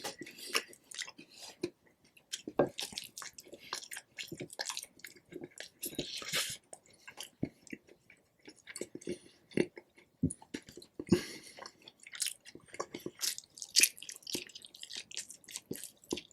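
Close-miked chewing and biting of rotisserie chicken: a steady run of irregular mouth clicks and smacks, with a few louder bites.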